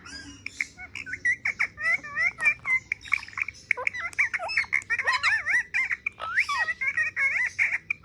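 Parrot chattering: a rapid, unbroken string of short whistled notes that glide up and down in pitch, several per second.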